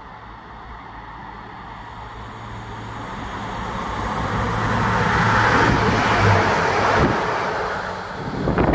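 Northern diesel multiple unit approaching and running through the station: a steady engine hum under rising wheel-on-rail noise, loudest about five to six seconds in, where the hum drops in pitch as the train passes, then fading. A brief gust on the microphone near the end.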